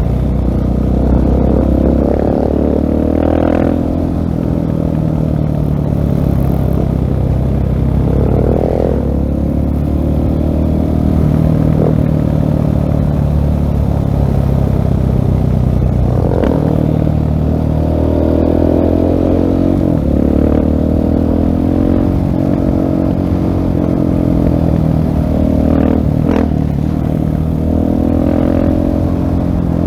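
The single-cylinder engine of a 2016 Husqvarna 701 Supermoto running through a LeoVince full-system exhaust while being ridden. The engine note rises and falls several times as the rider accelerates and eases off.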